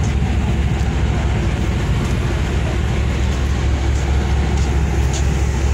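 Railway train's steady low rumble, picked up with the microphone held outside the carriage window, with a few faint ticks near the end.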